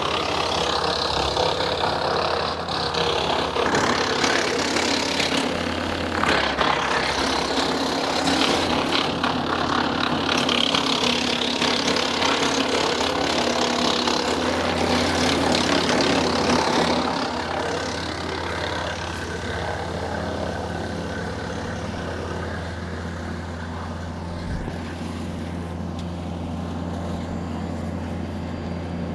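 Woodland Mills WC68 PTO-driven wood chipper chipping green cherry and ash branches, a dense crackling chipping noise over the steady hum of the tractor driving it. About 17 seconds in the chipping dies down, leaving the tractor and chipper running more quietly with little material going through.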